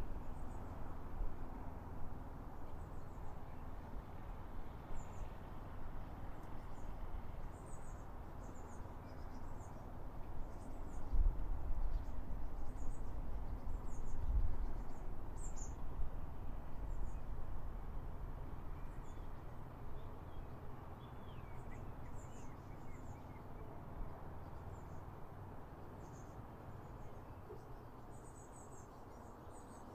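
Birds' short, thin, high-pitched chirps, scattered irregularly, with a few lower falling notes about two-thirds of the way in, over a steady low rumble that swells briefly around the middle.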